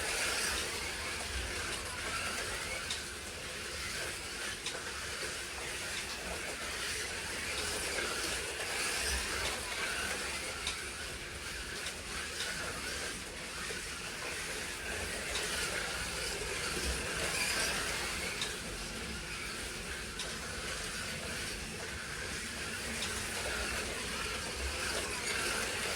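Slot cars racing around a track: their small electric motors and tyres make a steady high whirring hiss that swells and fades as the cars pass.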